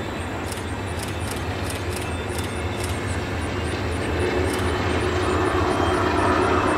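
Amtrak passenger train led by a GE Genesis diesel locomotive rolling past: a steady low diesel rumble with rolling wheel noise, growing gradually louder, with a held hum joining about three seconds in.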